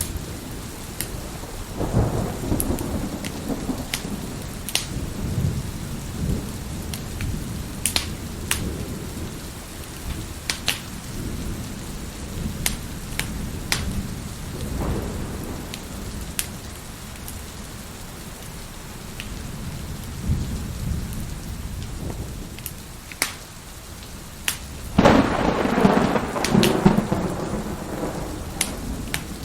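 Wood fire crackling and popping in a fireplace, with sharp snaps scattered throughout, over steady rain and rolling thunder. A rumble of thunder begins about two seconds in, and a louder roll comes near the end.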